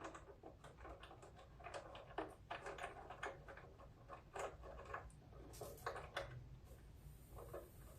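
Faint, irregular small clicks and light rattles of a riding mower's choke cable and its fittings being worked loose by hand.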